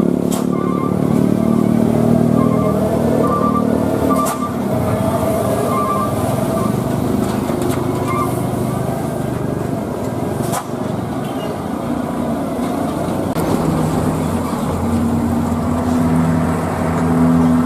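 Truck engines running on a steep mountain climb, amid passing traffic; one engine's hum grows louder and steadier near the end. Short repeated beeps sound over the first several seconds.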